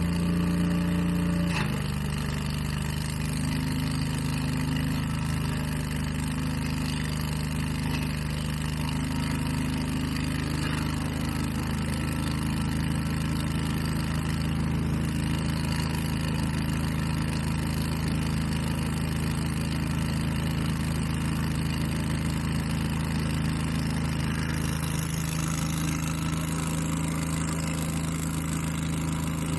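Engine of leaf-cleanup power equipment running steadily at high speed. Its pitch drops a little about a second and a half in, then holds.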